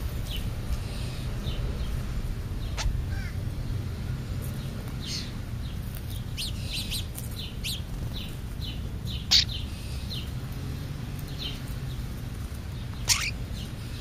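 Birds chirping in short, scattered calls over a steady low rumble. Two sudden short louder sounds come about nine and thirteen seconds in.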